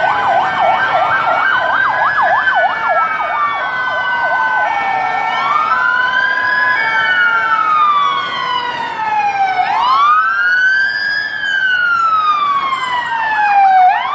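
Several fire truck sirens sounding together. For the first few seconds a fast yelp sweeps up and down several times a second over a slow wail. After that the wail rises and falls in long cycles of about four seconds, with a steady two-note tone alternating underneath.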